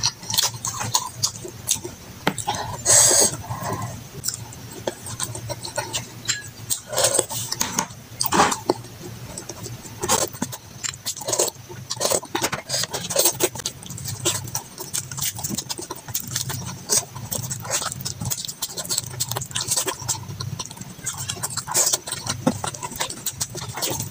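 Close-up eating sounds: wet chewing and lip smacking on sauce-coated chicken and rice, a dense run of irregular short clicks and smacks, with the occasional click of a plastic spoon against the food and bowl.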